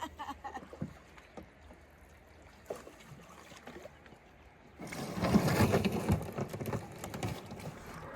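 Water splashing and sloshing around a canoe on the river, starting suddenly about five seconds in after a quiet stretch and dying away near the end.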